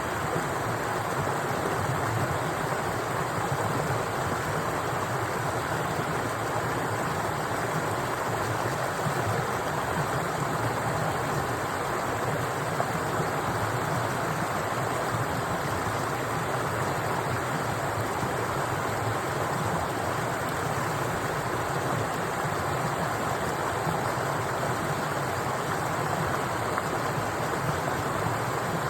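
Water flowing steadily, as in a stream, a continuous even rush that does not change.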